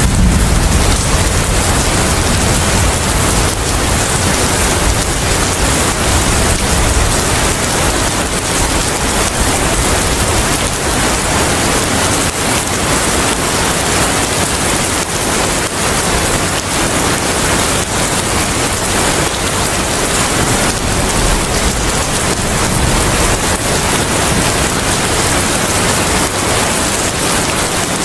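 Steady, dense rainfall with wind. A low rumble dies away in the first few seconds.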